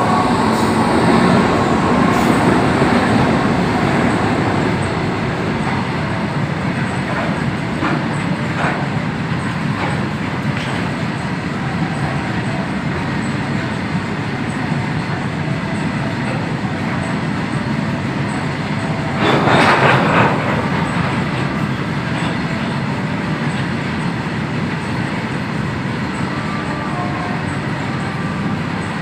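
Freight train hauled by twin WAG-9 electric locomotives running past, a steady rumble of wheels on the track. It is loudest in the first few seconds, with a few wheel clacks and a louder swell of noise about two-thirds of the way through.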